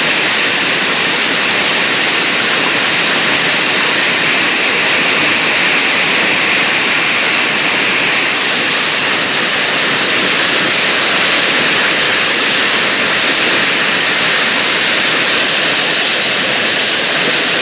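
Hailstorm: hail and heavy rain pelting down in a loud, dense, steady rush that holds unchanged throughout.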